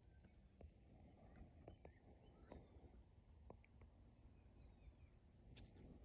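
Near silence with faint songbird chirps: short high notes in pairs about every two seconds, and a couple of brief falling notes.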